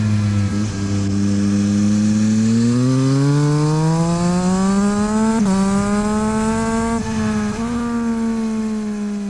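Yamaha MT-09 SP's inline-three engine through a LeoVince exhaust, heard onboard. The revs climb steadily for a few seconds, then a brief jolt in pitch comes about halfway through, and the revs hold fairly steady with two small hitches before easing off slightly near the end.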